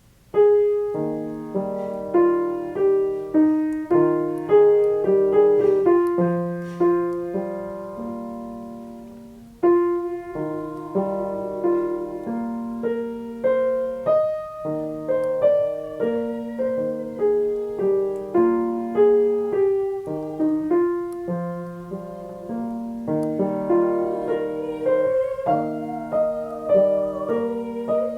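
Piano playing a song's accompaniment, melody over chords, in short phrases of struck notes that die away. There is a brief break about nine seconds in before it starts the phrase again.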